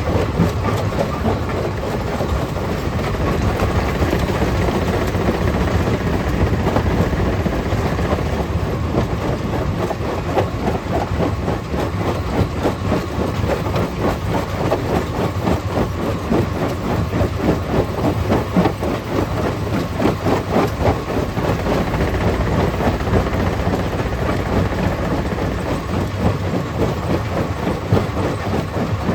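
Stone crusher plant running: a steady heavy machine drone under a constant dense clatter of rock being crushed and shaken.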